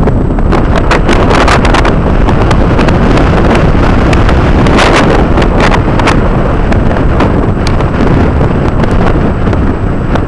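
Heavy wind buffeting the microphone, crackling throughout, over the engine of a jet ski.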